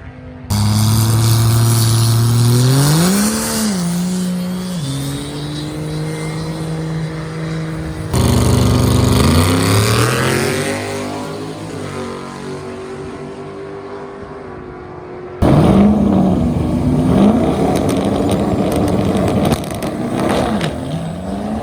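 Drag-racing car engines revving and accelerating, in three short cuts that each start suddenly: held revs, then the engine pitch climbing as a car pulls away, then revs rising and falling several times.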